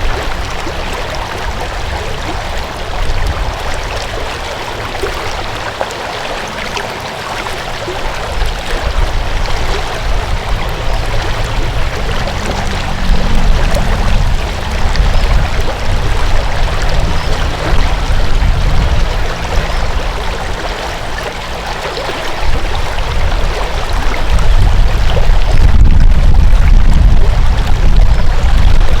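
A stream's water flowing steadily, with a deep rumble underneath that swells in the second half and is loudest near the end.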